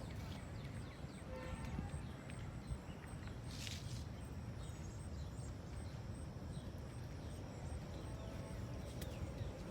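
Outdoor ambience: a steady low rumble, with faint short chirps above it and a brief hiss about three and a half seconds in.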